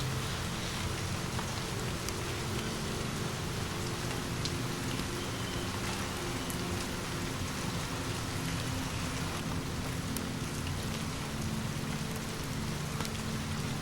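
Steady rain falling, with scattered sharp ticks of drops and a low steady hum underneath.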